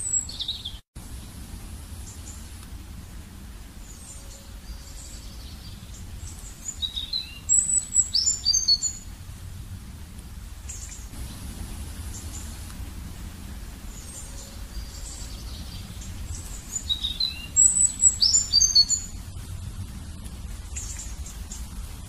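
A small bird chirping: two quick runs of short, high chirps, about eight and eighteen seconds in, over a steady low background rumble.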